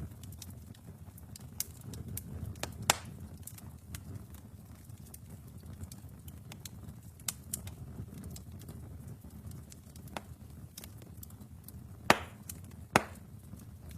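Wood fire burning in a fireplace: a low steady rumble of flame with irregular crackling, and a few louder pops, the sharpest about three seconds in and twice near the end.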